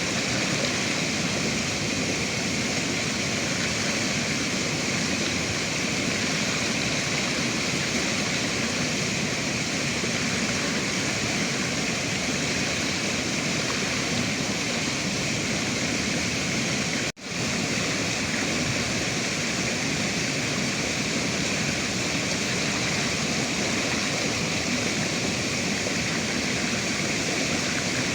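River water rushing, an even, steady noise. About 17 seconds in the sound cuts out for an instant and comes straight back.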